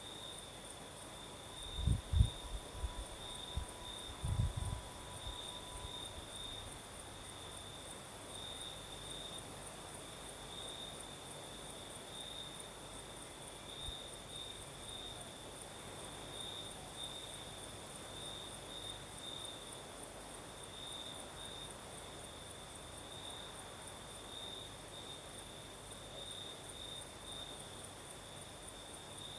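Crickets chirping steadily in a fast pulsing trill, with a fainter, higher insect trill above it. A few low thumps, the loudest sounds here, come about two and four seconds in.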